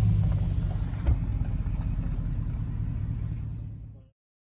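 Pickup truck cab noise while driving: a steady low rumble from the engine and road, with a single knock about a second in. The rumble fades and then cuts off suddenly near the end.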